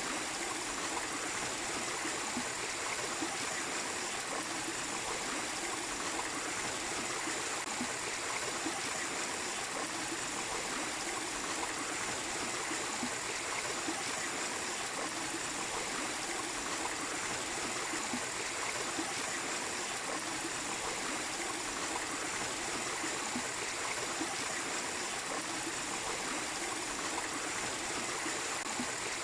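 Mini waterfall pouring steadily: an even, unbroken rush of falling water.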